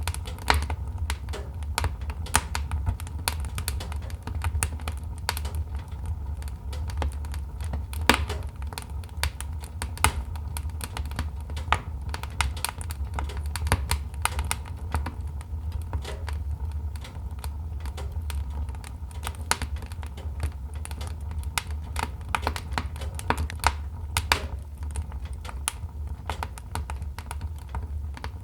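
Wood fire crackling in a fireplace: many irregular sharp pops and cracks over a low, steady rumble.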